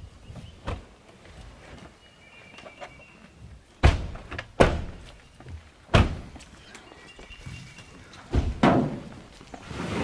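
Four or five heavy thunks spaced a second or two apart, each sharp and short.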